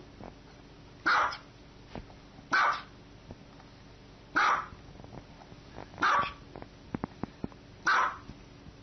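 A small white dog barking in short, sharp, high-pitched yaps, five of them with a pause of about a second and a half between each: demand barking, asking to be given something.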